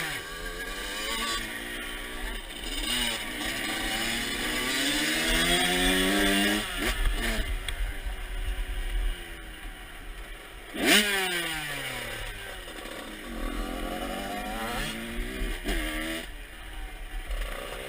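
Motocross dirt bike engine being ridden, its revs climbing and dropping repeatedly, with a sharp rev peak about eleven seconds in that falls away.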